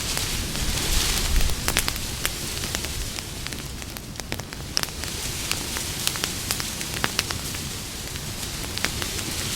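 Wood campfire burning, with irregular sharp crackles and pops over a steady hiss; a brief louder rush of flame about a second in.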